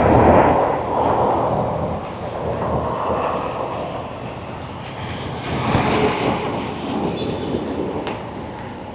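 Rushing, roaring storm noise that swells twice, strongest at the very start and again about six seconds in.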